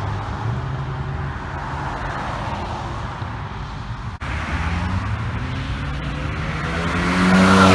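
Car engines running as cars drive out. Near the end one car accelerates close by, its engine note rising and getting much louder.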